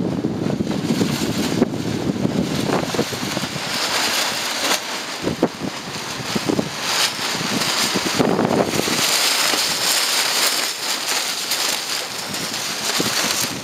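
Desert wind storm gusting hard against the microphone, with a low buffeting rumble at first and then surges of higher hiss, broken by short sharp cracks.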